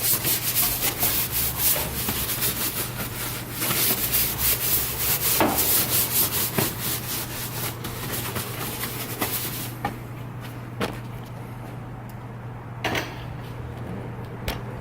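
Soft-bristled brush scrubbing wet plastic engine-bay parts with soapy cleaner, in quick back-and-forth strokes. The scrubbing stops about ten seconds in, leaving a few light knocks.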